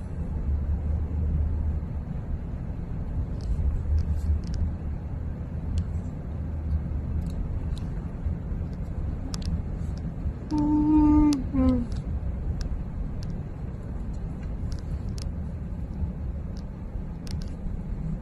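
Steady low rumble of a vehicle on the move, with scattered light clicks and a brief pitched tone about ten and a half seconds in.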